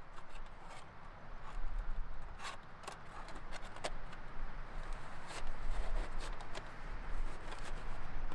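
Wood fire crackling in a small fire pit, with irregular sharp pops and snaps over a steady hiss, and wind rumbling on the microphone at times.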